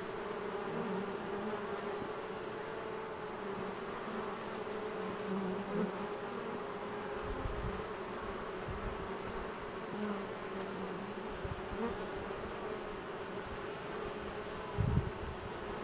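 Honey bee swarm buzzing, a steady drone of many wings as the bees settle into the hive box; the roar of their wings has died down quite a bit. A few brief low thumps come through, the loudest near the end.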